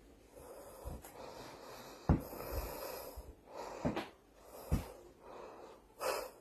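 A dog snorting and breathing in a string of short, noisy bursts, the sharpest about two seconds in.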